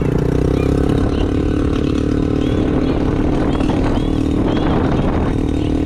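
A 2022 Honda Navi's small single-cylinder engine running steadily while the bike is ridden, with wind noise on the microphone.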